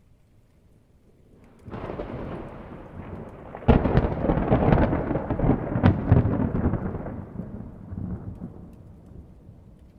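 A thunderclap: a rumble builds about a second and a half in, breaks into a sudden loud crack with crackling a couple of seconds later, then rolls on and fades away over the next few seconds.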